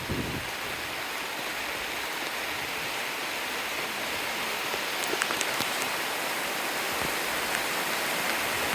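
Rain falling steadily on rainforest foliage, a constant hiss that slowly grows heavier, with a few sharp drips about five seconds in.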